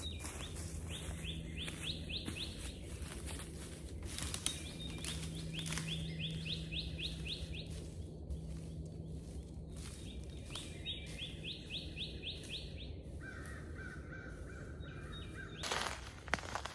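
A songbird singing the same phrase of quick rising notes four times, with pauses between, over a steady low hum of outdoor background noise.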